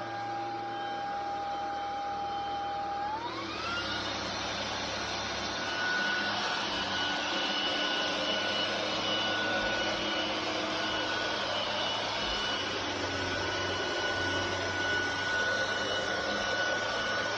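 Brushless motor of a cordless stick vacuum running with a steady whine; about three seconds in the whine rises in pitch and the airflow noise gets louder as the motor speeds up, then it runs steady at the higher speed.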